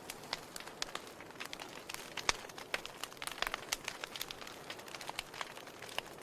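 Wood fire crackling in a fireplace: irregular sharp pops and snaps over a soft steady hiss, the loudest snap a little over two seconds in.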